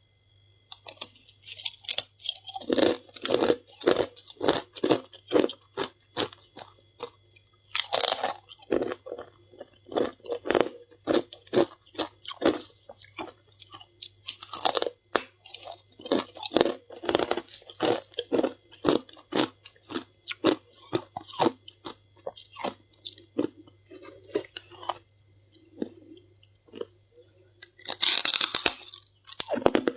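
Close-miked chewing of crunchy humidifier frost: a fast run of sharp crunches, several a second, broken by a louder fresh bite every several seconds.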